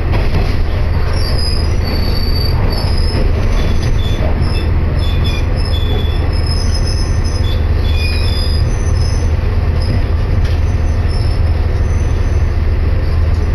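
Inside a train carriage: the steady low rumble of the running train, with short high wheel squeals coming and going through the first two-thirds as it slows into a station.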